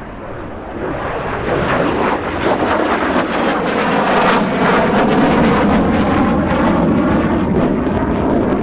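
Lim-5 (Polish-built MiG-17F) jet fighter making a low pass, its Klimov VK-1F centrifugal-flow turbojet growing louder over the first couple of seconds and then staying loud with a ragged crackle as it goes by.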